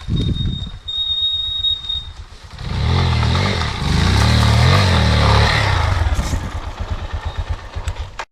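Spark SP250D-1 pit bike engine running under the rider, with a steady high squeal from its drum brakes in the first two seconds. About two and a half seconds in the engine revs up and its pitch rises and falls for a few seconds, then it settles back to a lower pulsing run before cutting off suddenly.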